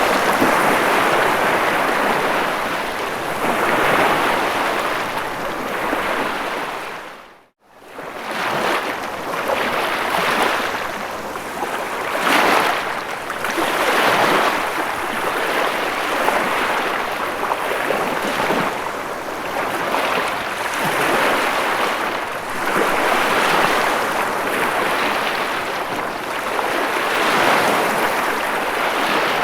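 Ocean waves washing in, a continuous rushing hiss that swells and eases every couple of seconds. About seven seconds in, the sound fades out to silence for a moment and fades back in.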